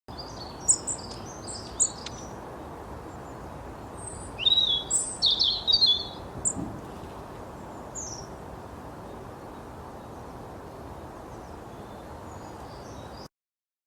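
Songbird singing short bursts of high chirps and trills, the loudest phrase about four to six seconds in, over steady background noise.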